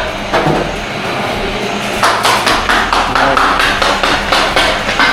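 Rapid repeated sharp knocks, about three a second, starting about two seconds in after a quieter stretch.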